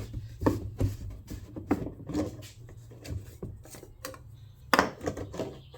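Irregular clicks, taps and knocks of objects being handled, over a steady low hum; the loudest knock is near the end.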